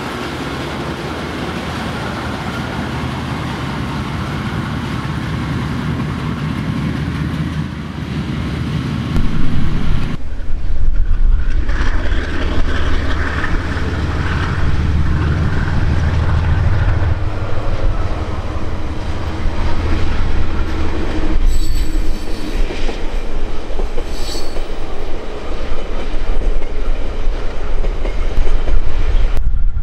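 Diesel-electric locomotive running as it rolls slowly past close by, followed by a locomotive-hauled passenger train rumbling through. Thin high wheel squeals come in about two-thirds of the way through.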